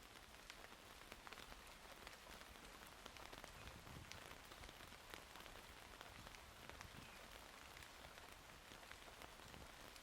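Steady, faint rainfall, with many separate drops ticking through the hiss.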